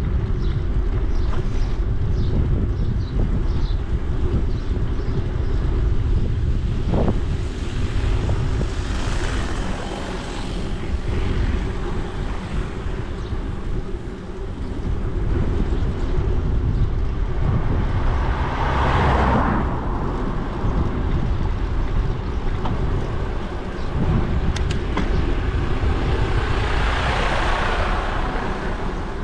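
Wind buffeting the microphone of a camera carried on a moving bicycle: a steady low rumble, with a rushing hiss that swells and fades three times.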